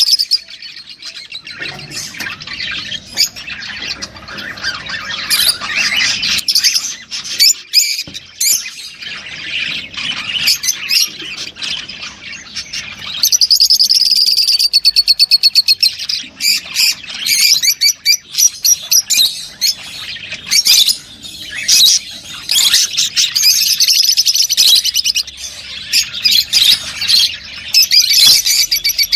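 Lovebirds chattering continuously with shrill squawks and chirps, several birds overlapping, with a fast run of rapidly repeated notes about halfway through.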